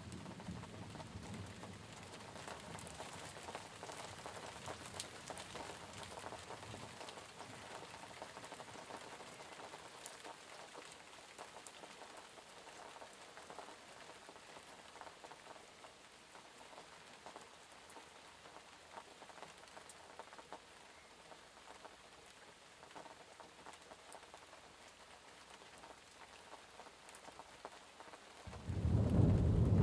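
Steady rain falling and pattering, with individual drops ticking. A low rumble of thunder dies away over the first few seconds, and a loud rumble of thunder breaks in near the end.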